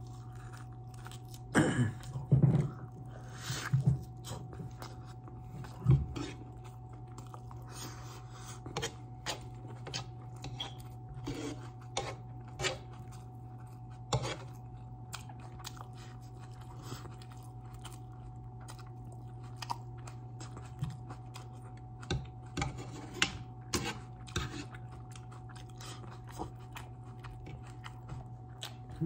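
A person biting into and chewing barbecued turkey leg meat close to the microphone, with the loudest bites in the first six seconds, then quieter wet chewing clicks at an irregular pace. A steady low hum sits underneath.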